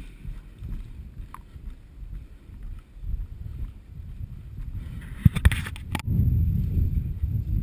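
Rumbling wind and handling noise on a body-worn camera microphone, with a quick cluster of sharp clicks about five seconds in; the rumble gets louder about a second later.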